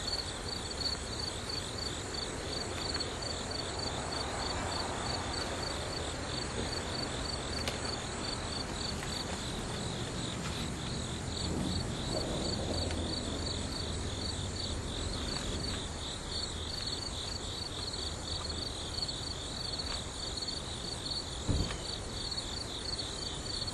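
High-pitched insect chirping that pulses rapidly and evenly without a break, over a low hum. A single short knock comes near the end.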